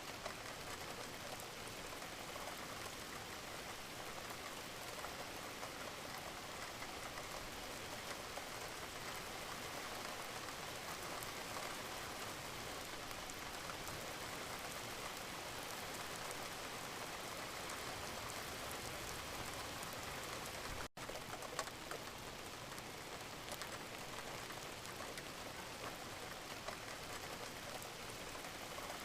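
Steady gentle rain, a dense even patter of drops, cutting out for an instant about three-quarters of the way through.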